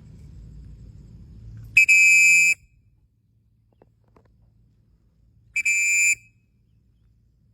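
A whistle blown twice: two short, shrill, steady blasts about three and a half seconds apart, each starting with a quick toot. A low rumble runs under the first two seconds.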